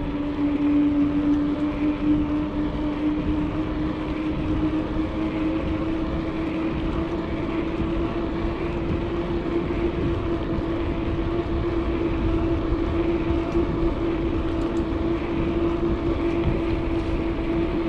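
Bicycle coasting fast downhill: wind rushing over the microphone and a steady hum from the rolling bike that rises slowly in pitch as it gathers speed.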